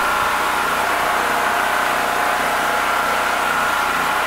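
Heavy rain pouring steadily, with a steady engine-like hum running beneath it.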